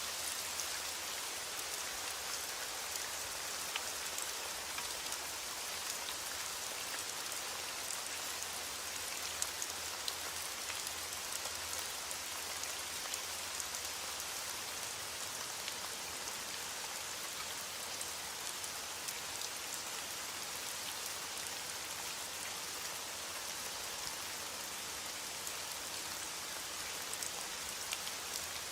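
Steady rain falling, a constant even hiss with many small drop ticks scattered through it.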